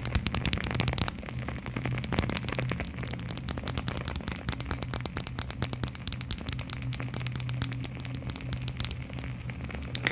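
Fast tapping on small boxes, a quick rattling run of many light clicks a second with a thin high ring. It pauses briefly about a second in and fades out near the end.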